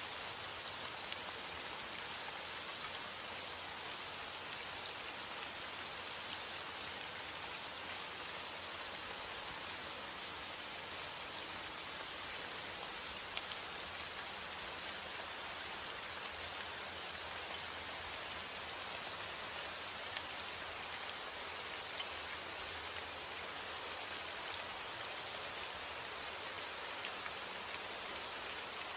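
Steady rainfall: an even, dense hiss with scattered sharper drop hits.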